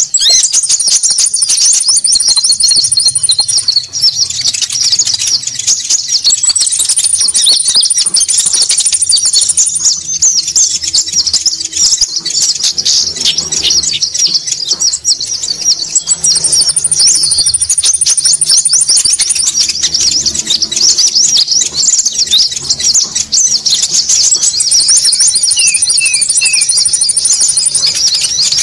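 Looped bird-lure call of konin birds: a dense, noisy chattering of rapid high chirps with no pause. A thin, steady high whistle joins in four times, each time for about three seconds.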